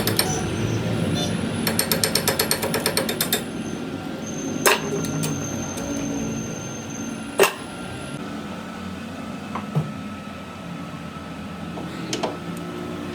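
Metal tool work on heavy steel parts: a fast rattle of taps for the first few seconds, then single sharp metal knocks a couple of seconds apart. The first knock leaves a thin, high ring hanging briefly.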